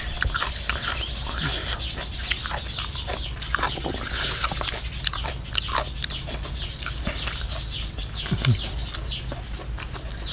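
Someone chewing, with many small irregular mouth clicks and crunches, over a steady low hum.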